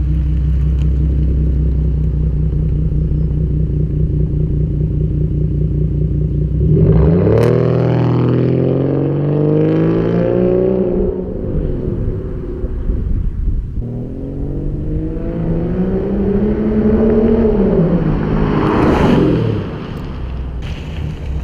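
Straight-piped 3.6-litre V6 of a 2011 Dodge Charger running steadily at low revs, then accelerating hard twice, about seven and fourteen seconds in. Each time the exhaust note rises in pitch and then falls away.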